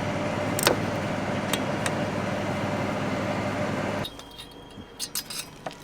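A steady machine hum with a low drone cuts off suddenly about four seconds in. It is followed by scattered light metallic clinks of hand tools on metal parts.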